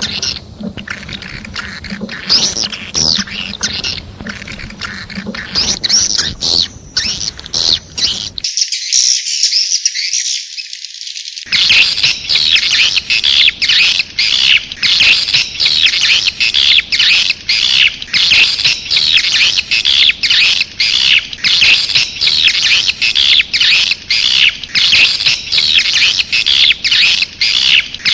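Swiftlet call recording of the kind used as a lure for edible-nest swiftlets: dense, high, buzzy chirps in rapid succession. From about a third of the way in they settle into a fast, even chattering train.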